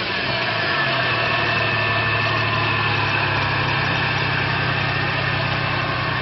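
Subaru EZ30 3.0-litre flat-six engine, heard close up in the open engine bay, dropping back from a rev over the first second and then idling steadily.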